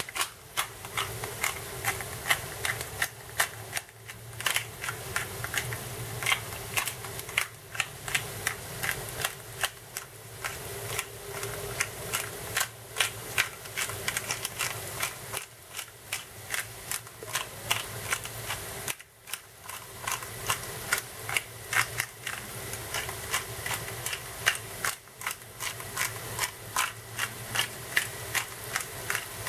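Potatoes frying in hot oil in a pan, with a dense, irregular crackling and popping of the fat.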